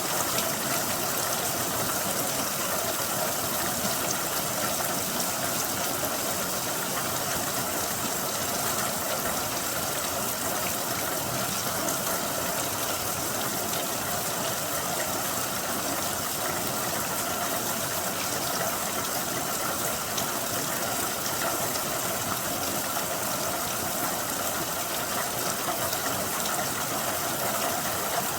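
Rain falling steadily: an even hiss with faint ticks of individual drops.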